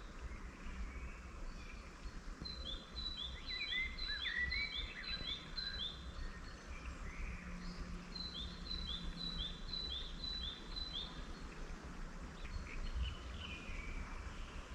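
Wild songbirds singing: one bird repeats a quick, high two-note phrase about four times a second in two runs of about three seconds, while other birds call lower in between. A steady low rumble runs underneath.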